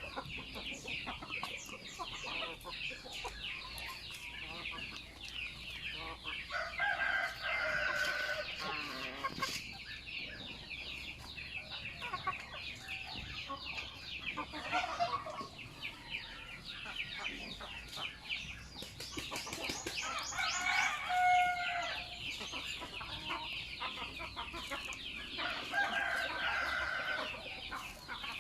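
Native chickens in a flock: roosters crow three times, about a quarter of the way in, past the middle and near the end, over steady clucking and a dense high chatter.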